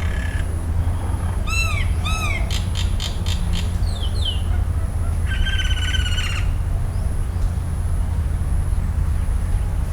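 Forest birds calling over a steady low rumble: two short arched calls in quick succession, a rapid run of clicks, a couple of falling notes, then a buzzy call held for about a second near the middle.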